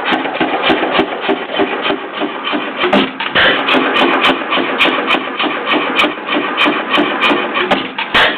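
5 hp Economy hit-and-miss gasoline engine running just after being started, a steady mechanical clatter with sharp knocks repeating a few times a second.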